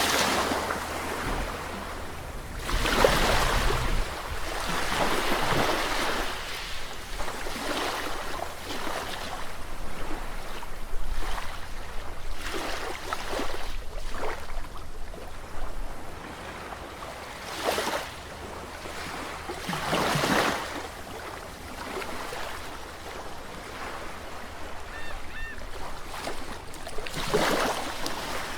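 Sea waves breaking and washing in, one surge after another every few seconds over a steady hiss of surf, with a low rumble under the first half.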